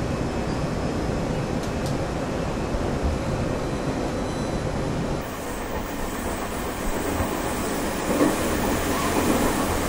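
Passenger train running along the track: a steady rumble of wheels and carriage noise.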